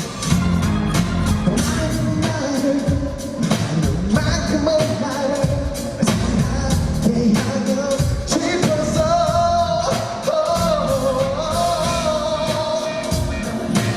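Male pop singer singing live with a band, over a steady beat. About halfway through he holds long sung notes.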